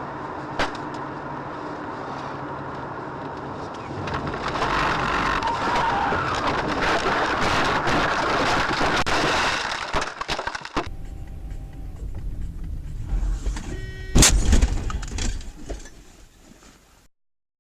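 Car driving along with steady road and engine noise that swells for several seconds, then, after a cut, a short loud bang about fourteen seconds in.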